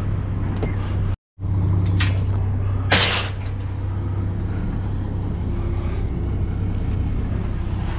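Vehicle engine running with a steady low hum, heard from inside the cab. The sound cuts out completely for a moment a little over a second in, and a short noisy burst comes about three seconds in.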